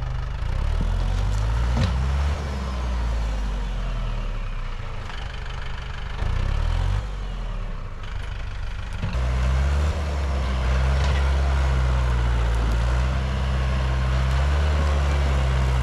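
Tractor engine running steadily. Its note changes briefly about six seconds in and runs louder and fuller from about nine seconds.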